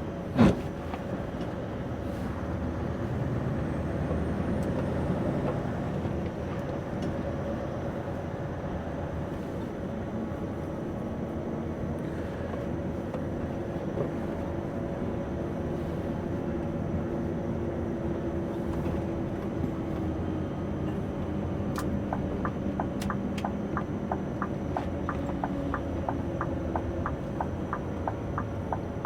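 Scania V8 truck engine running steadily, heard from inside the cab, with a single sharp knock about half a second in. Near the end the turn-signal indicator starts ticking, about two clicks a second.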